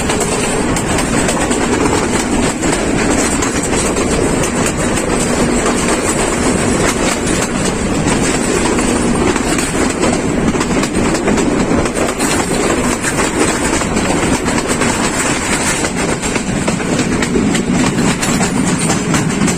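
Passenger train running along the track: a steady rumble with the clatter of wheels over the rails.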